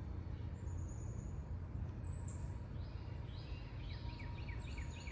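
Wild birds singing over a steady low rumble of outdoor background noise: a high whistled note early on, a falling note about two seconds in, then a quick run of short falling chirps through the second half.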